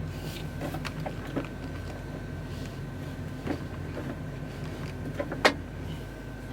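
Steady low hum with a faint steady whine, as inside a parked truck cab, broken by several light clicks and knocks; the sharpest knock comes about five and a half seconds in.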